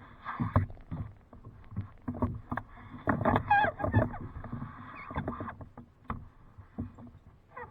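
Kayak paddling: irregular paddle strokes dipping and splashing in the water, with knocks and thumps among them.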